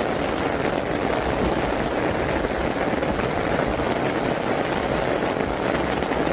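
Heavy rain falling hard and steadily, a dense even downpour with no let-up.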